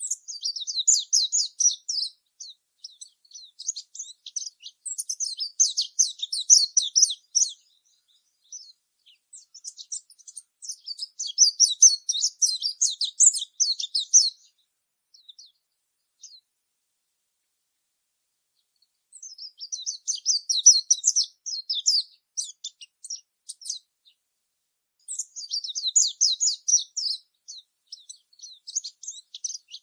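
Small songbirds twittering: rapid, high-pitched chirps in bouts a few seconds long, broken by pauses, with a silent stretch about two-thirds of the way through.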